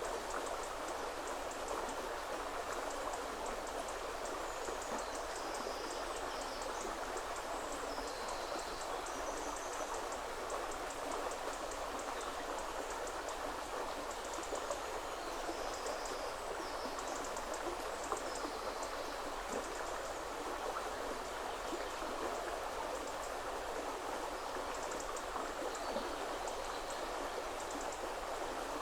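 River water running over stones, a steady rushing, with small birds singing short high phrases every few seconds above it.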